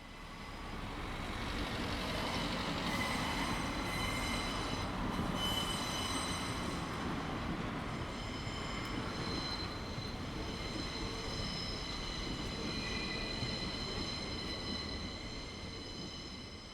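A train running on the rails, its steel wheels squealing in several high steady tones over the rumble. It swells in over the first couple of seconds and dies away near the end.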